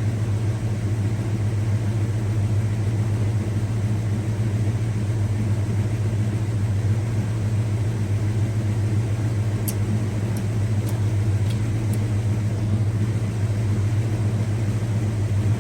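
A steady low mechanical hum, like a motor or engine running without change, with a few faint light clicks about ten to twelve seconds in.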